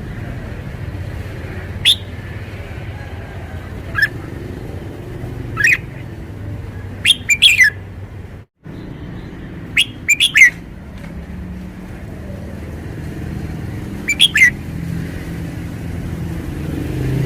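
Red-whiskered bulbul calling: short, bright, quickly gliding notes, at first singly every couple of seconds and then in quick clusters of three or four, over a steady low background rumble.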